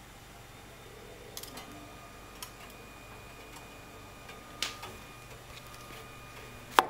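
AEG Lavamat L88489FL washing machine running its steam anticrease programme: a faint steady hum with a few scattered sharp clicks and knocks, the loudest near the end.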